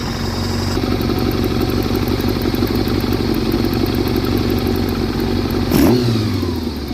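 1989 Kawasaki ZX-7 Ninja's 750cc inline-four engine running at a fast idle while its carburettors are adjusted, with no air box fitted. About six seconds in the revs rise briefly and fall back, and the idle settles lower.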